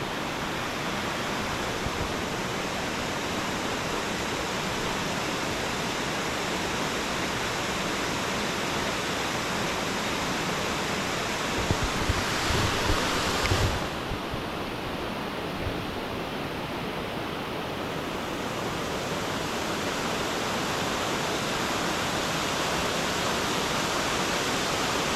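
Waterfall rushing, a steady roar of falling water. A brief louder swell with a few low bumps comes about halfway through.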